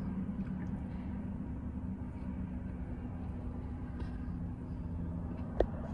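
Steady low hum of a car's engine idling, heard inside the cabin, with one short knock near the end.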